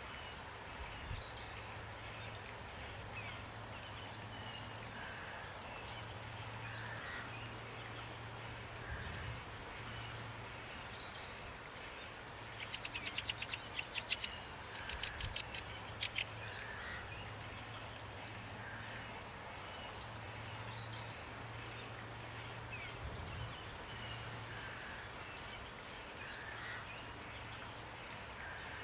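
Small songbirds chirping and whistling short falling notes over a steady hiss of rain, with a rapid run of trilled notes about halfway through that is the loudest sound. A low hum comes and goes underneath.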